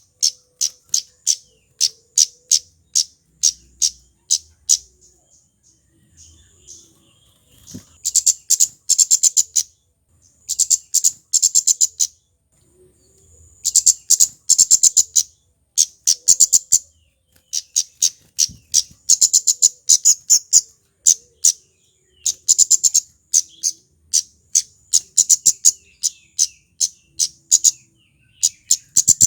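Male kemade (a Javan flowerpecker) singing: a long run of sharp, very high, ticking chips, at first spaced about three a second and later packed into fast rattling bursts of a second or so, with brief pauses between them.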